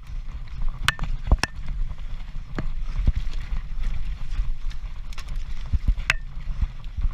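Transition Patrol mountain bike descending at race speed, with wind rumbling on the camera microphone and the bike rattling and knocking over rough ground. Several sharp clacks stand out, the clearest about a second in and again near the end.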